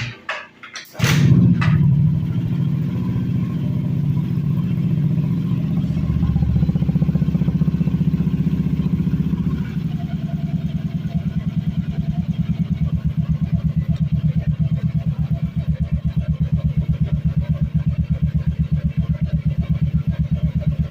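Motorcycle engine through a TZM Project aftermarket racing exhaust, starting about a second in after a few short knocks, then idling with a deep, bassy exhaust note that settles into an even, pulsing throb.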